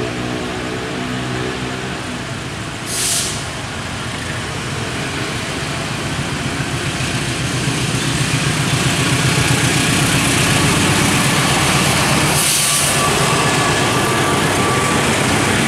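Locomotive-hauled passenger train approaching and passing close by, the rumble of the engine and wheels on the rails growing louder from about six seconds in. Two short hissing bursts stand out, about three seconds in and near the end.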